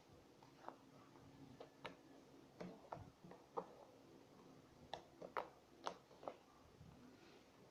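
Homemade glue slime being squeezed and stretched by hand, giving faint, irregular little clicks and pops.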